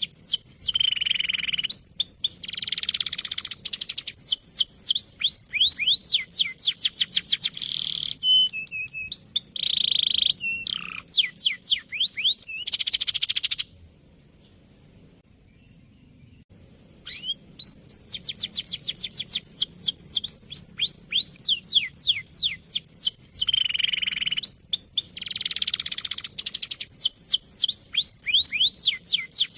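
Male domestic canary singing: long rolling trills of rapid, repeated falling notes, broken by a pause of about three seconds about halfway through before the song picks up again.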